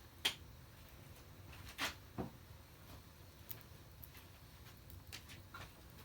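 Wood fire crackling: scattered sharp pops and snaps at irregular intervals over a low steady hiss, the loudest pops about a quarter second in and around two seconds in.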